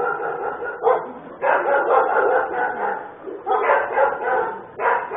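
Dogs barking in repeated bouts, each lasting up to about a second.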